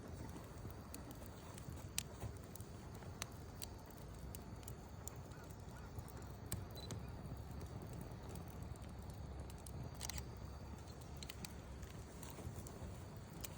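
Wood campfire burning: scattered sharp crackles and pops over a steady low rumble, with a loud pop about two seconds in and a quick run of crackles near ten seconds.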